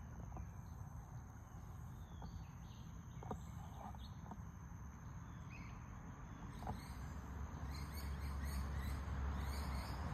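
Wild birds chirping over a thin steady high whine, with a low rumble that grows louder about seven seconds in.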